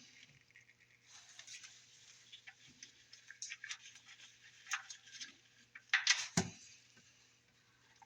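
Engine oil pouring out of the oil pan's drain hole into a drain pan: a steady splattering hiss that starts about a second in, with scattered small ticks and a louder clatter about six seconds in.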